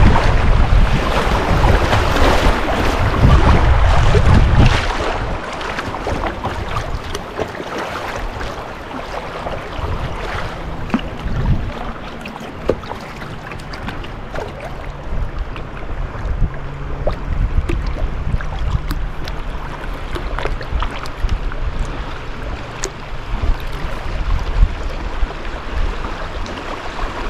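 Moving river water splashing and rushing around a kayak, with wind buffeting the microphone for about the first five seconds. After that, quieter flowing water with scattered small knocks and ticks.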